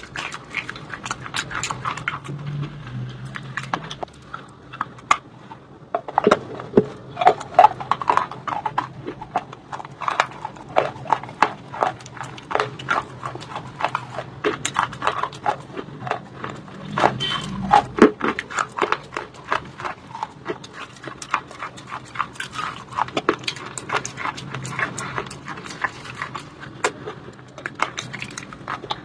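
Close-up chewing of white shale stone: sharp, irregular crunches, several a second, as the brittle stone breaks between the teeth.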